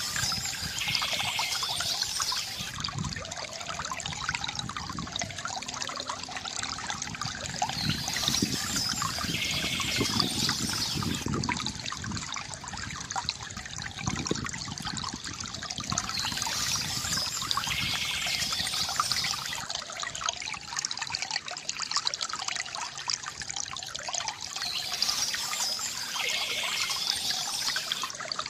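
Water trickling and gurgling steadily from a bamboo fountain spout. Short bursts of higher chirping, typical of songbirds, come back about every eight seconds.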